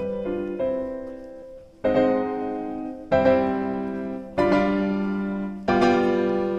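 Background solo piano music: a few shorter notes, then slow chords struck about every second and a quarter, each left to ring and fade.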